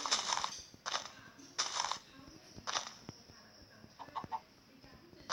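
Chicken clucking in short, harsh calls, about five over a few seconds.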